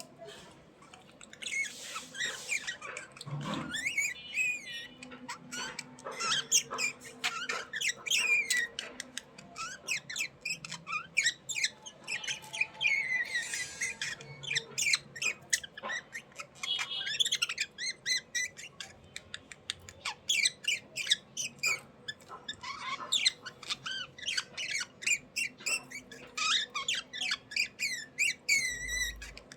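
Budgerigars chirping and chattering, a dense, unbroken run of quick calls that slide up and down in pitch.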